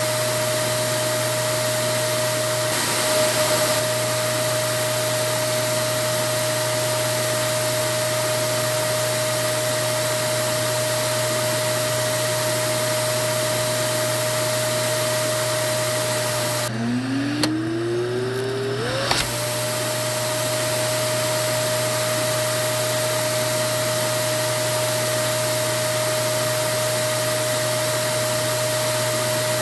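Vacuum cleaner running steadily, its motor whine held on one high note over a rushing airflow noise. About two-thirds of the way through, the motor note briefly drops low and winds back up in pitch before settling again.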